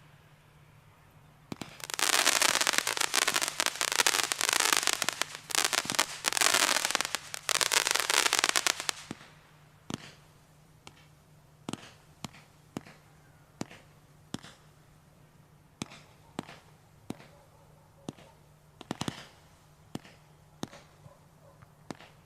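Black Bird fireworks item firing 100 small whistling pieces: for about seven seconds a mass of screaming, wavering whistles with dense crackling, then scattered pops and crackles as the last pieces go off.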